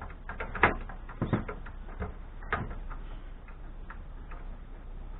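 Metal clicks and knocks from hand tools and parts on a scrap amplifier's metal chassis as the screws holding its transformer are worked loose. A quick run of sharp clicks comes in the first three seconds, loudest about two-thirds of a second in, followed by a few fainter taps.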